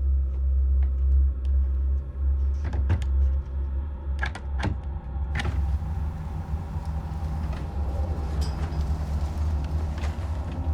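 A loud, steady low rumble with a few sharp clicks about three to five seconds in. After the clicks an even hiss joins the rumble.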